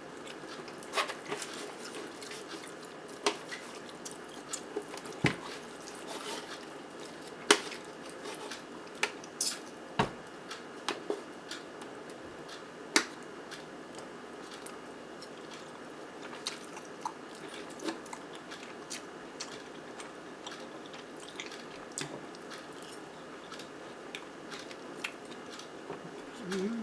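Close-miked eating sounds: someone chewing and biting soft baked zucchini with melted cheese and ground turkey, broken by scattered sharp clicks of a fork or utensil on a plate.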